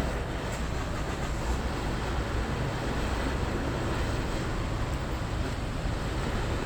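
Steady low rumble of road vehicle noise, even throughout with no distinct knocks or clicks.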